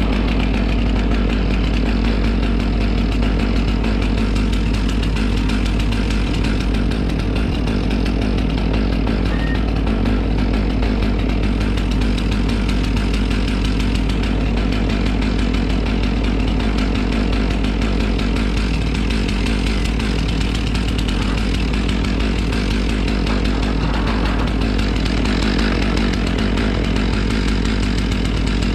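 Two-stroke chainsaw running steadily at a constant speed, with no clear rises or drops in engine pitch.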